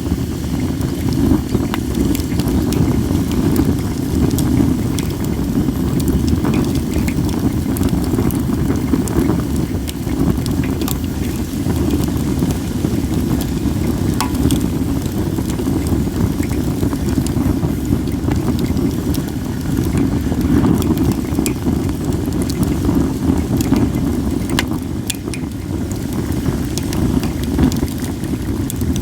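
Wood fire of acacia and mixed firewood crackling, with scattered sharp pops, over a steady low rumble of wind on the microphone.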